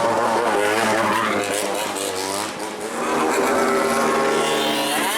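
Bosozoku gang motorcycles revving their engines, the pitch swinging up and down in repeated revs over a steady low idle. A rising rev comes near the end.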